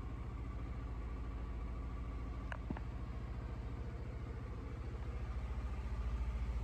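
Suzuki Burgman 400 maxi scooter's single-cylinder four-stroke engine idling steadily, with two faint clicks about two and a half seconds in and the engine a little louder near the end.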